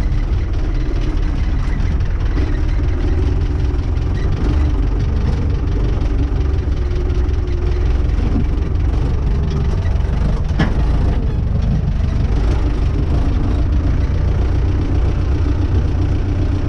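Renault 651 tractor's diesel engine running steadily as it pulls off and drives with a tipping trailer hitched behind, with a single knock about ten seconds in.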